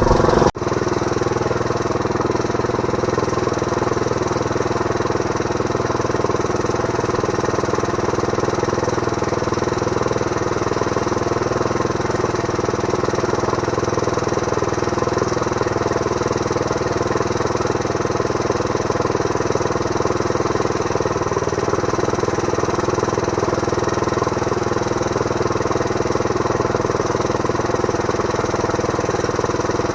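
Small Briggs & Stratton engine running steadily, driving a homemade bandsaw through a right-angle gearbox and pulleys. There is a brief dropout about half a second in.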